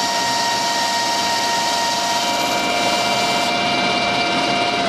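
Metal lathe running under power with a steady whine of several tones from its motor and gear train.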